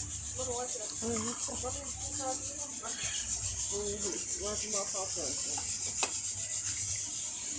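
Blended carrot and ginger pulp being rubbed and pressed through a strainer to squeeze out the juice, a steady rasping rub. There is one sharp click about six seconds in, and faint voices in the background.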